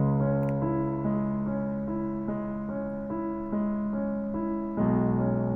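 Background piano music: a gentle repeating pattern of notes over held bass notes, with a new chord coming in near the end.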